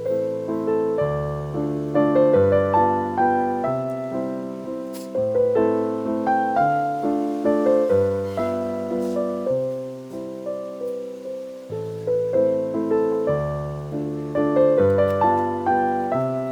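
Background piano music: a gentle melody of steady, evenly struck notes over sustained bass notes.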